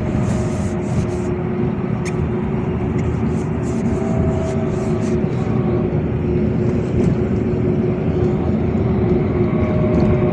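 Inside a LiAZ 5292.65 city bus under way: steady engine and road noise with a constant whining tone, and light clicks and rattles from the cabin.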